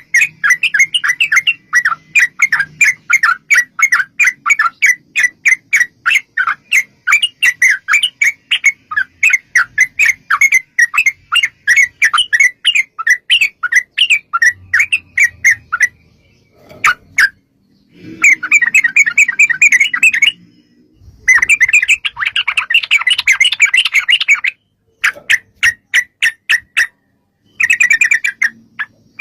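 Yellow-vented bulbul (trucukan) singing in long, fast runs of sharp repeated notes, several a second, broken by short pauses and denser chattering bursts. This is the long rolling 'ropel' song used to provoke other bulbuls into answering.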